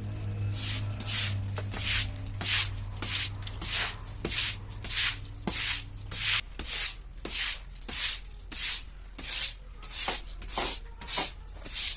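Hand scrubbing of a surface during cleaning, back-and-forth strokes at an even pace of about two a second, each a scratchy rasp.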